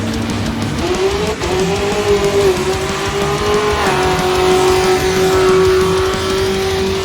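A car doing a burnout: the engine revs up about a second in and is held high, with the tires squealing, over background music.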